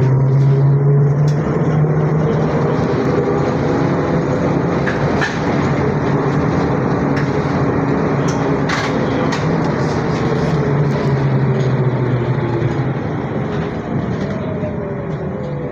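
ZiU-682G trolleybus under way, heard from inside the cabin: the traction motor's whine glides up and down with speed over a steady hum and falls away near the end as it slows. Occasional clicks and rattles.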